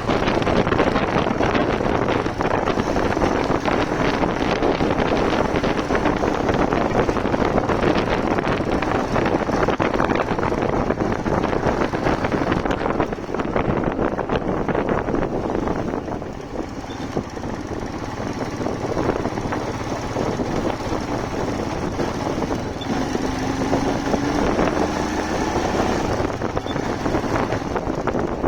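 Motorcycle riding along with wind rushing over the microphone and the engine running underneath. The wind noise eases somewhat about sixteen seconds in, and a short rising engine tone comes through near the end.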